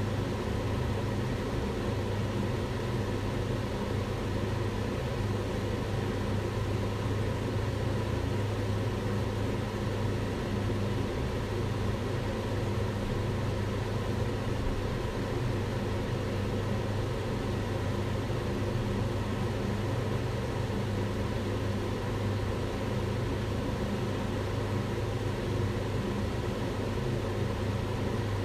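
Kitchen range hood fan running steadily: a constant low motor hum under a broad rush of air, with no change in speed.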